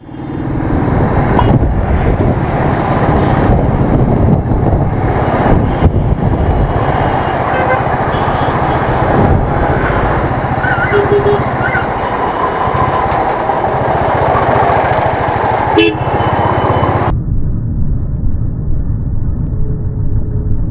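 Royal Enfield Thunderbird's single-cylinder engine thudding steadily while riding in traffic, with wind and road noise, and a few short horn toots from other vehicles around the middle. Near the end the sound turns suddenly muffled.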